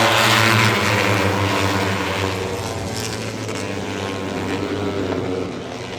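Propeller aircraft flying over, a steady engine drone that is loudest at the start and fades somewhat.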